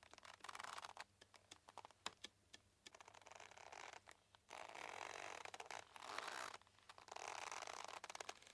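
Faint creaking of a boat's ropes: scattered sharp ticks, then several long, rough creaks of a second or two each.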